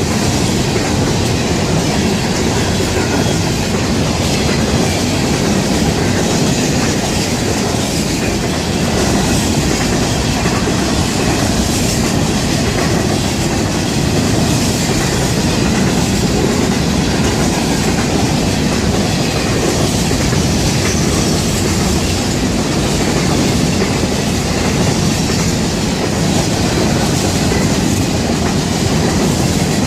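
Cars of a long Florida East Coast freight rock train rolling past close by, wheels clattering steadily and loudly on the rails.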